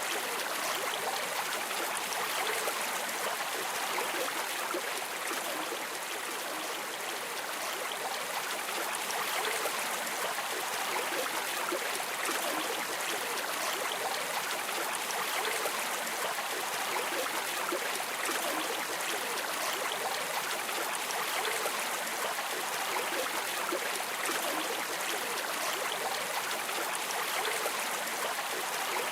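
River water flowing, a steady, even rushing hiss without pauses.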